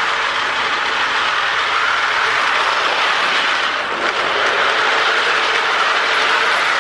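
Marx toy train, a Disney dual-cab locomotive pulling the revolving searchlight car, running on its track: a steady whir with a faint hum from the locomotive's motor and the wheels rolling on the rails.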